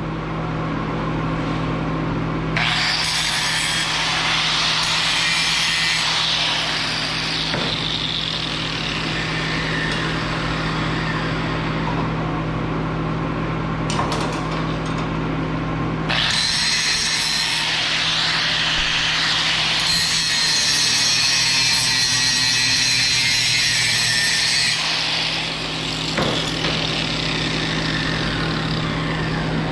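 Power tool grinding metal in two long continuous passes, the second starting about halfway through and stopping a few seconds before the end, over a steady low hum.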